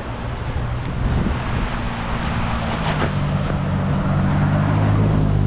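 Steady rush of a waterfall, with a low engine hum from a motor vehicle that grows louder from about halfway through.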